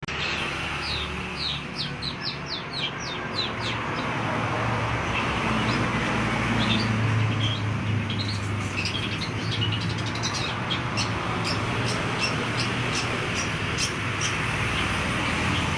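Long-tailed shrike (pentet) singing: a quick run of short, falling high whistled notes in the first few seconds, then later a long series of sharp, clicking chattering notes, over a steady hiss and low hum.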